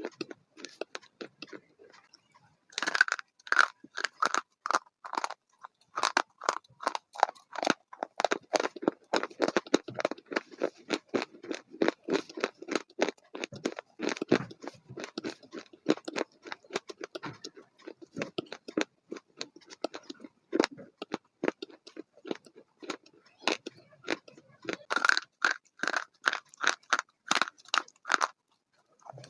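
A person chewing crunchy food, many quick crunches a second, with a short pause about two seconds in.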